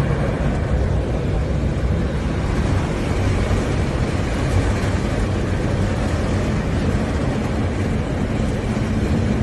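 Steady low rumble of vehicle and road noise.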